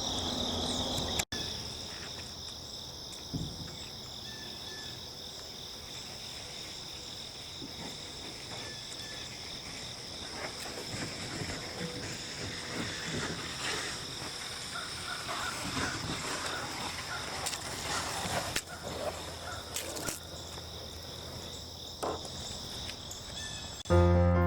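Steady high-pitched chorus of insects, with a few faint knocks here and there. Music comes in just before the end.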